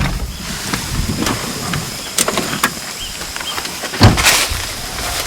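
Vehicle noise: a low rumble with scattered knocks and rattles, and one loud knock with a rush of noise about four seconds in.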